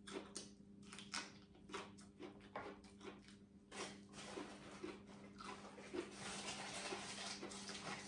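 A person chewing crunchy raw vegetable close to the microphone: a run of crisp crunches that thickens into dense continuous crunching from about four seconds in, over a low steady hum.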